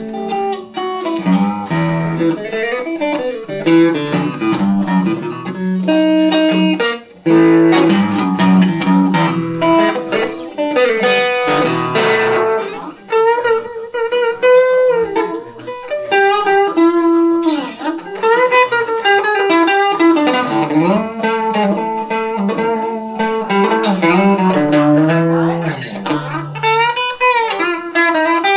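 Van Zandt Telecaster electric guitar through a Roland JC-120 amp, playing a blues passage without vocals, with many notes bent up and down.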